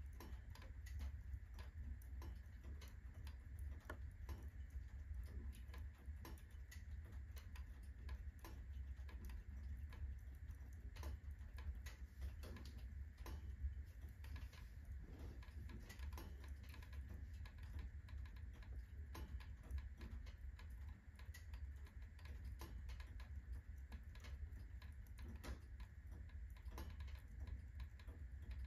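Wood fire burning in a fireplace at full burn, the firewood crackling with many small, irregular pops over a low steady rumble.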